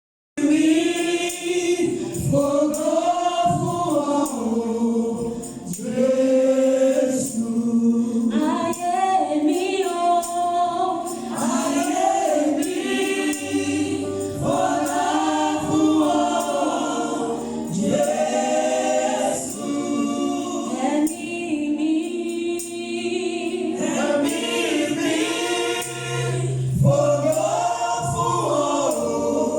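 A choir singing, in sung phrases of a few seconds each.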